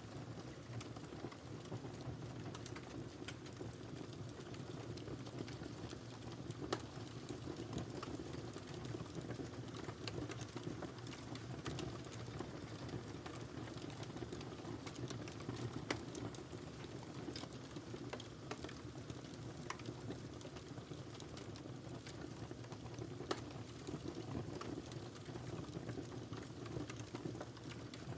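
Wood fire burning in a fireplace: a steady low rush of flames with irregular sharp crackles and pops throughout, a few louder pops standing out.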